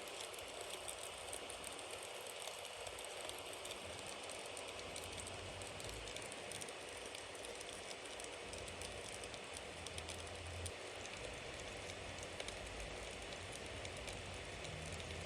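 Bonfire burning: a steady hiss of flames with scattered crackles of burning wood and a couple of slightly louder pops in the second half.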